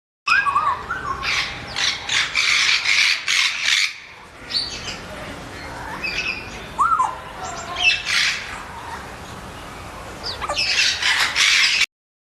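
Birds calling: harsh squawks mixed with short, sharply hooked chirps. The calling is loudest in two bouts near the start and near the end, with scattered calls between, and it starts and cuts off abruptly.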